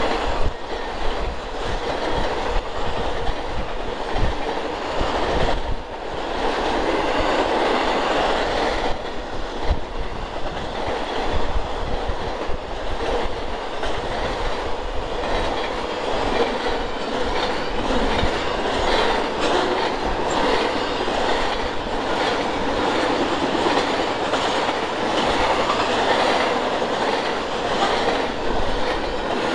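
Freight train of autorack and double-stack container cars rolling past close by: steel wheels clicking over the rail joints under a steady rumble, with a faint thin whine.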